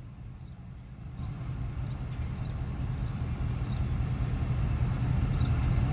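ZCU-20 diesel-electric locomotive running as it pulls a passenger train away, its low engine rumble growing steadily louder from about a second in.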